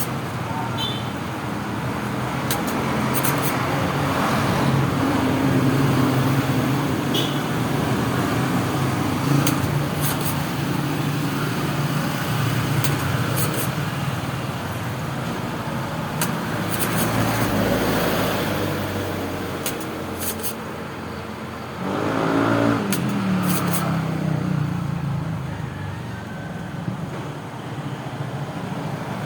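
Road traffic: motor vehicle engines running steadily, with one vehicle passing about three-quarters of the way through, louder, its pitch falling as it goes by.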